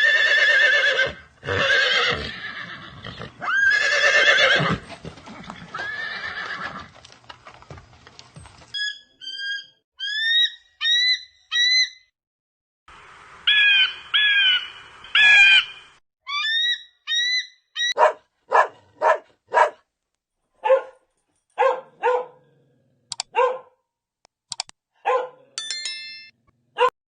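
A series of animal calls of several kinds: long, high-pitched squealing calls in the first seven seconds, then short rising chirps, then a quick run of short, sharp calls with brief pauses between them.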